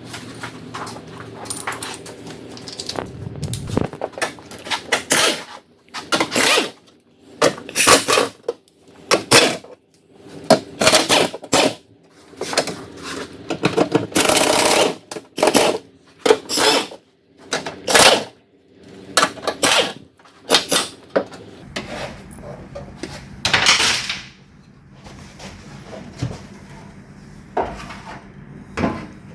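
Fast-forwarded sound of hand tools undoing 10 mm bolts and freeing a car's cowl panel: a string of short, irregular bursts of clicking and metallic clatter.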